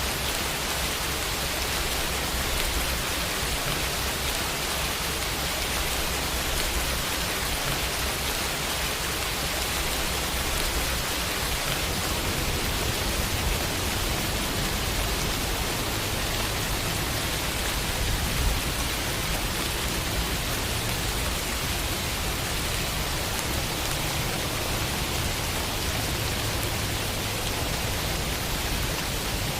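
Steady rainfall pattering on a window pane, an even hiss of drops with a low rumble underneath. One slightly louder drop lands about two-thirds of the way through.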